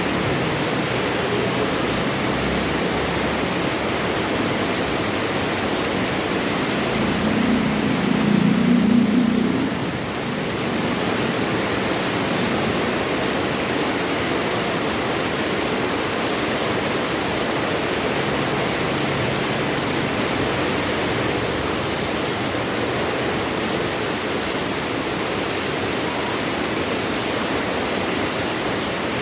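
Steady rain falling, an even hiss without let-up. A low rumble swells briefly about eight seconds in, then fades.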